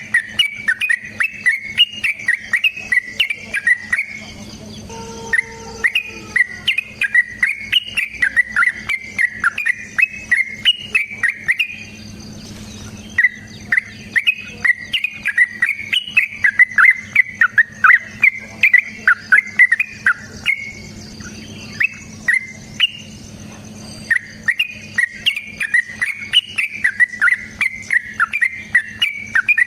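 Yellow-vented bulbul (trucukan) singing long, fast chattering phrases, in several runs of a few seconds each separated by short pauses. A steady faint insect drone sounds underneath.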